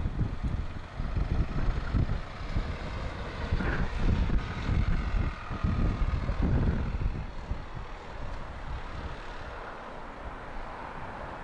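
Strong wind buffeting the microphone in irregular gusts, easing off about two-thirds of the way through.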